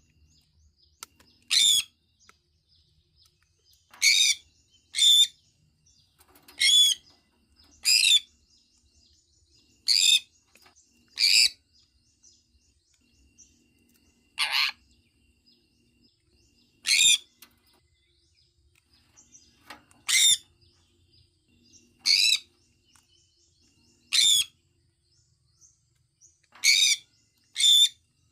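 Sun conure giving short, shrill, high-pitched calls, about fourteen of them spaced irregularly every one to three seconds, with a close pair near the end.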